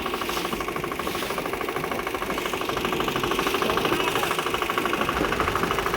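Boat engine running steadily with a fast, even chugging pulse.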